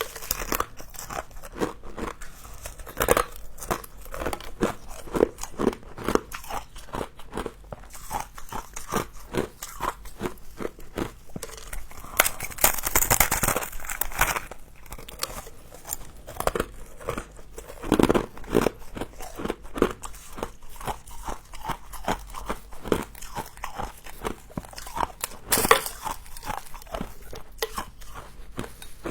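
A person biting and chewing frost up close to the microphone: a constant crackling crunch, with louder bites about three seconds in, a stronger stretch near the middle, and sharp crunches later on.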